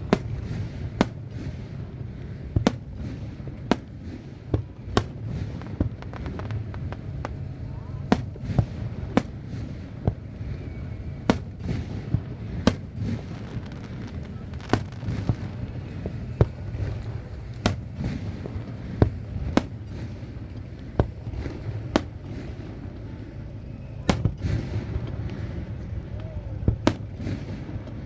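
Aerial fireworks display: a steady string of sharp bangs from bursting shells, irregularly spaced at roughly one a second, over a constant low background noise.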